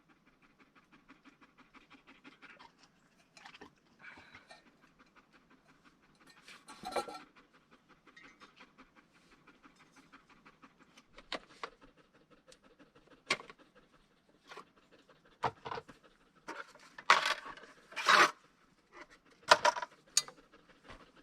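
A dog panting rapidly and steadily, with several sharp knocks and scrapes in the second half, the loudest near the end.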